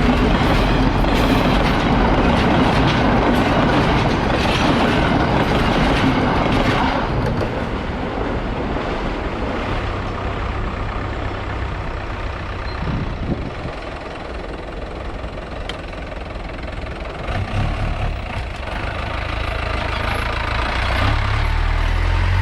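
Heavy vehicle noise at a railway crossing: a loud rushing pass-by for the first seven seconds or so, then a diesel engine running low and steady, getting louder near the end.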